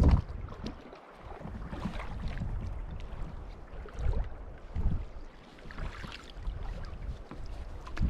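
Gusty wind buffeting the microphone over water splashing around an open canoe, with the low rumble swelling and easing several times.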